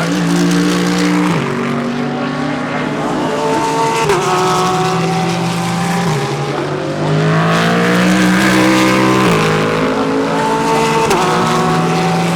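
GT3 race cars accelerating past, more than one engine at once, each note climbing and then dropping sharply as it shifts up, about every two to three seconds.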